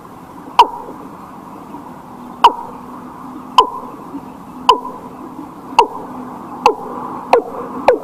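Bird calling: a series of short, sharply falling notes, repeated faster and faster, the gaps shrinking from almost two seconds to about half a second.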